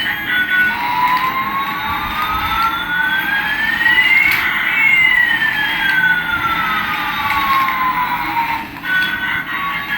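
Electronic siren sound effect from a toy: one slow wail rising for about three and a half seconds and falling for about four, followed by a few short beeps near the end.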